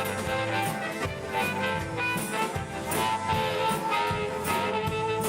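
Live band playing an instrumental introduction to a song, with held melody notes over a steady drum beat.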